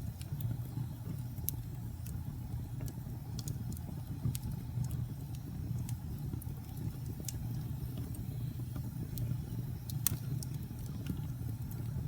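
Wood fire burning in a fireplace: a steady low rumble of flames with scattered sharp crackles and pops, the strongest one about ten seconds in.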